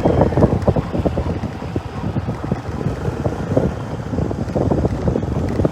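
Wind buffeting the microphone: a steady, rough rumble with rapid irregular flutter.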